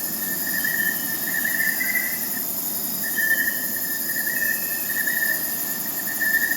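Crickets chirping in a steady trill over a constant high insect hiss, the trill pausing briefly about two and a half seconds in.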